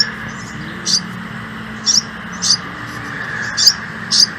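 A small bird's short, high chirps, about six of them at uneven intervals of roughly a second, over a steady background hum.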